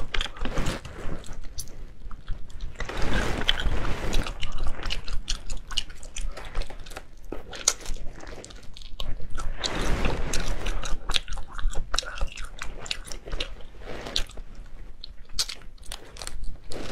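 Close-miked eating of spicy crayfish tails: wet chewing and biting with many small clicks and crunches, and two longer, louder stretches about three and ten seconds in.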